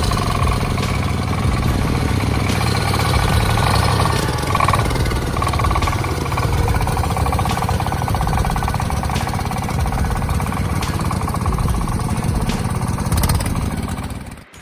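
A heavy engine running steadily, with faint scattered knocks over it.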